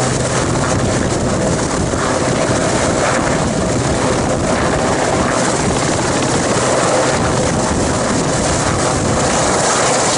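Westland/Sikorsky Sea King twin-turbine helicopter running close by in a hover, giving a steady, loud rush of rotor and engine noise with a faint held whine.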